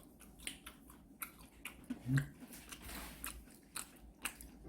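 A person chewing food close to the microphone: irregular wet clicks and small crunches of the mouth, with a brief low hummed 'mm' about two seconds in.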